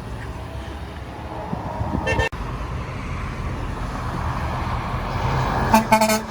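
Road traffic with a truck approaching and passing, sounding a few short horn blasts near the end; a brief horn toot about two seconds in.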